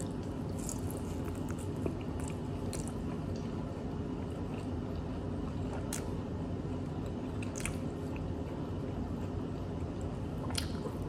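A person chewing a bite of sauce-glazed Korean fried chicken tender, soft wet mouth sounds with a few short sharp clicks spread through, over steady background noise.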